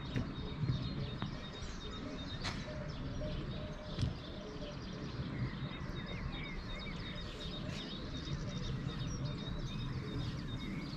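Small birds chirping and twittering over a steady low outdoor rumble, with two sharp knocks, one about two and a half seconds in and another about four seconds in.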